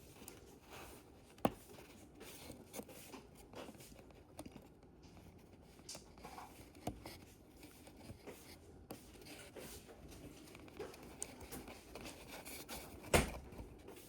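Faint small clicks and scratches of tweezers and a circuit board being worked into a Z scale locomotive's chassis, with a sharp click about a second and a half in and a louder click near the end.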